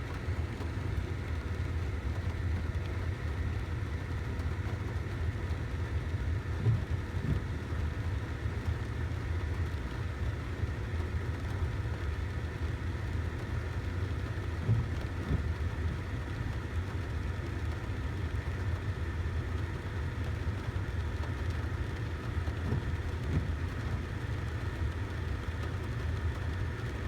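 Steady low rumble with a faint continuous hum.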